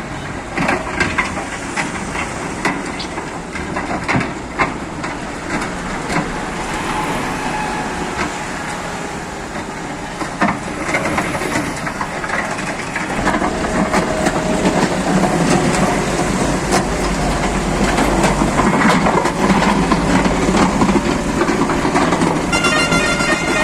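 Diesel engines of a tractor and a JCB backhoe loader running, with frequent metallic clanks and knocks; the engine rumble grows heavier about halfway through. A high pitched tone comes in near the end.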